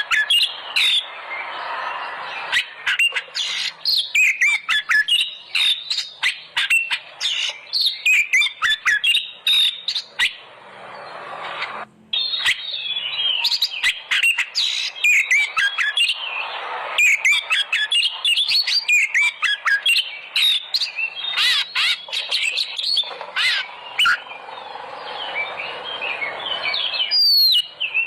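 Oriental magpie-robin (kacer) singing a fast, varied run of chirps, whistles and sharp clicking notes, over a steady hiss.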